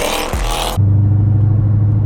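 Music with car sounds cuts off abruptly under a second in, giving way to the steady low drone of a car engine idling.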